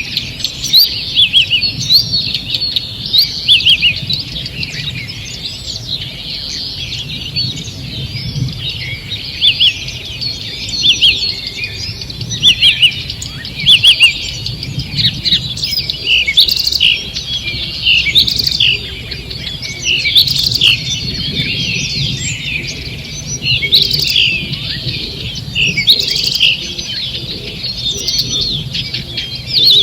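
Morning chorus of many songbirds singing and chirping at once: dense, overlapping high trills and quick whistles, with a faint low rumble beneath.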